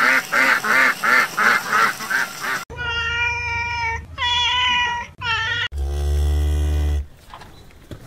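A sequence of different animal calls: a quick run of about eight short calls, then three longer drawn-out pitched calls, then a low call that stops abruptly about seven seconds in.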